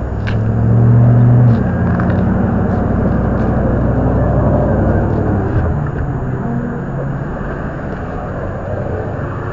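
Steady low vehicle rumble, like a car engine running, swelling louder about a second in and then easing off, with a few faint clicks over it.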